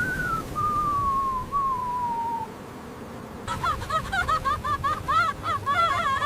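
A long whistle sliding slowly down in pitch over a low rush of wind. About three and a half seconds in, a flock of birds starts chirping rapidly and keeps going.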